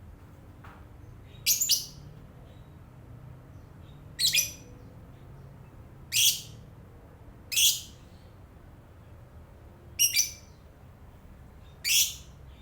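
Lovebird giving six short, high-pitched calls, spaced about two seconds apart.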